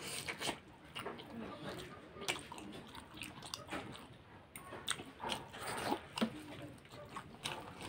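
Close-up chewing and mouth sounds of a person eating momo dumplings, with many short, sharp smacks and clicks scattered irregularly throughout.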